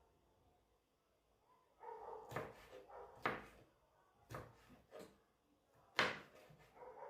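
Household handling noises: a series of about five sharp clicks and knocks, like cupboard doors or drawers, the loudest a little before the end, with softer rustling between them.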